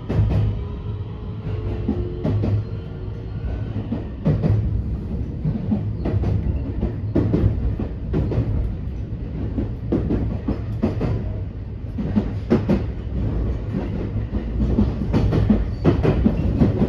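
Interior running sound of a JR West 321 series electric motor car: a steady low rumble of wheels and traction motors, with irregular clacks as the wheels cross rail joints. The whine of the Toshiba IGBT inverter is heard faintly at the start and stops about two and a half seconds in.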